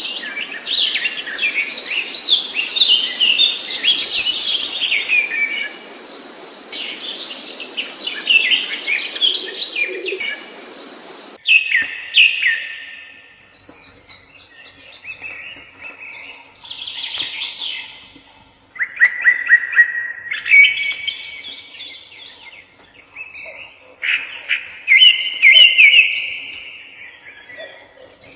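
Songbirds singing: a dense run of fast chirps and trills, then, after an abrupt change in the background hiss about eleven seconds in, separate short phrases of quick chirps with pauses between them.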